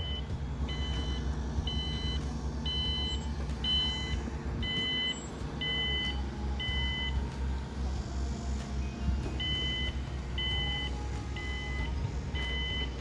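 A construction vehicle's reversing alarm beeping steadily, about one beep every 0.7 s, with a pause of about two seconds in the middle, over the low rumble of heavy diesel machinery.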